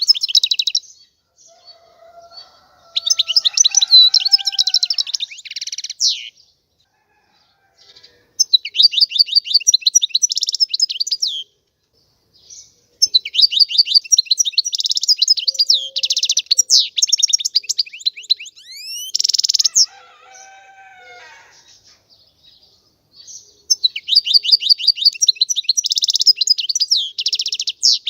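European goldfinch singing in repeated phrases of rapid, high twittering trills, about five phrases separated by short pauses, with a few softer, lower whistled notes in some of the gaps.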